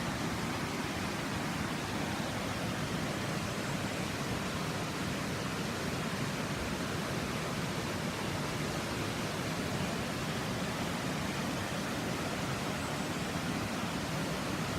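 Steady rushing roar of a large waterfall, water cascading down a deep rocky gorge, an even unbroken rush heavy in the lower range.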